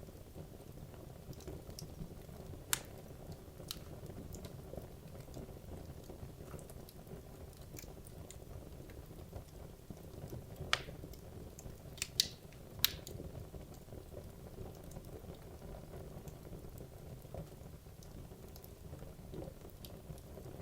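Wood logs burning in a fireplace: a steady low rumble of flames with scattered crackles and pops, the sharpest a single pop about three seconds in, another about eleven seconds in and a quick run of three about twelve to thirteen seconds in.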